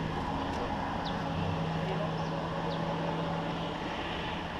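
A vehicle engine running at a steady pitch, then cutting out about four seconds in, over a steady background rumble.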